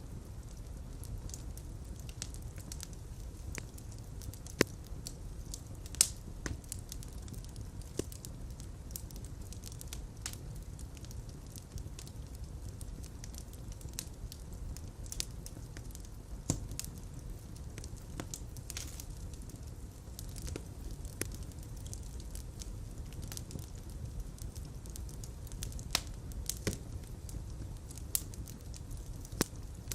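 Wood fire burning in a fireplace: a steady low rumble of flames with irregular crackles and sharp pops, the loudest pops about four and a half and six seconds in.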